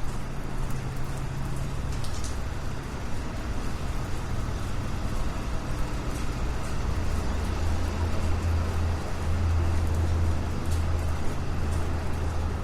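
City street traffic: a steady wash of road noise under a low vehicle engine rumble that grows stronger about halfway through, with faint footstep ticks.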